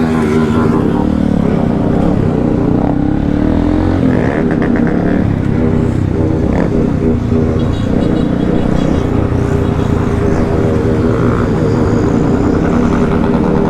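Motorcycle engines running steadily as a group of riders moves along together.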